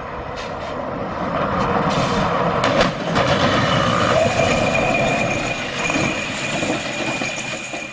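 Heavy vehicle running with a loud rumble and clatter, a few sharp knocks about three seconds in, and a thin steady high whine through the second half.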